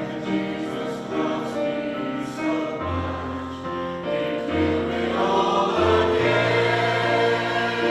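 Choir singing a hymn over instrumental accompaniment, in long held notes; low bass notes come in about three seconds in.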